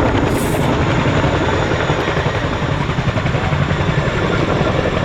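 RAF Boeing Chinook tandem-rotor helicopter flying a display pass, its twin rotors and turbine engines making a loud, steady, deep chopping rumble.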